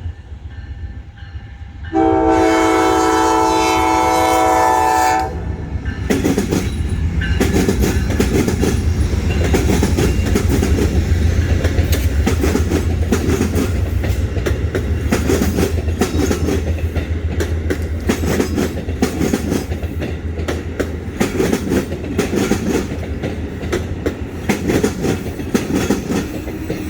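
The Amtrak Silver Meteor's locomotive horn sounds one chord of several notes about two seconds in, held for about three seconds. The train then rolls into the station: a deep engine rumble with the wheels clicking over the rail joints, steady to the end.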